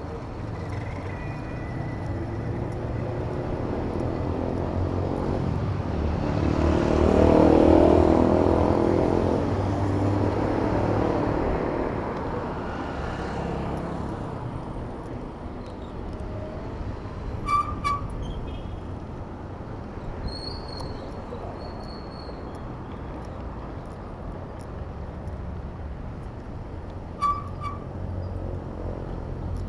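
City road traffic heard from a moving bicycle, with a steady rumble. A motor vehicle passes close about seven to nine seconds in, swelling loud and fading. Two short, sharp chirps come later.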